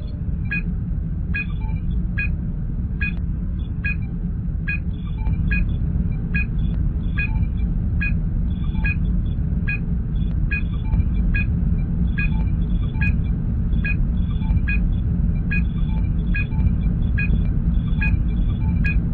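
Star Trek starship bridge sound effect: a steady low engine rumble with a short electronic sensor-scan blip repeating a little faster than once a second.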